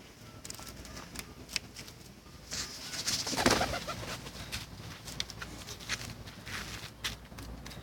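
A flock of pigeons cooing, with scattered sharp clicks and a louder rush of flapping wings about three seconds in.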